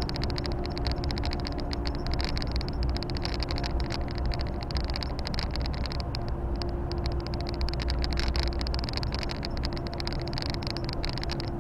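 Volvo FH 460 truck's 13-litre six-cylinder diesel engine running steadily on the move, with road and tyre noise, heard from inside the cab.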